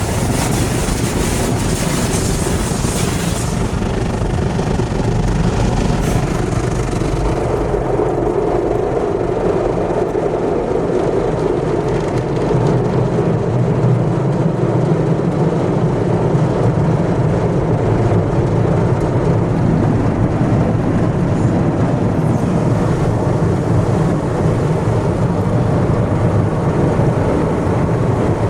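Automatic car wash heard from inside the car: a hiss of water spray for the first few seconds, then a steady heavy rumble of the wash machinery working over the car.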